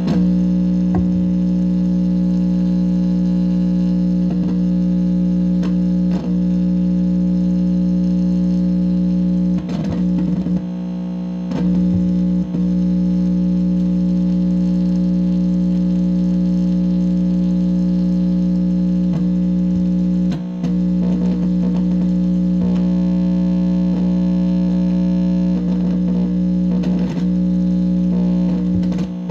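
Loud, steady electrical buzz from an amplifier speaker: a stack of fixed low tones with a hiss above them, broken now and then by short crackles and quick chirps that slide in pitch, with a brief drop-out about twenty seconds in.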